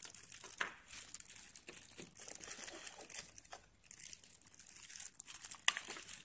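Clear plastic zip bags crinkling as they are handled and shuffled, with a few sharp clicks, the loudest near the end.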